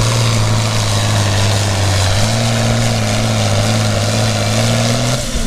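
International Harvester 966 pulling tractor's diesel engine running hard under load as it drags the weight sled down the track. Its note steps up slightly about two seconds in and drops away just before the end as the pull finishes short of a full pull.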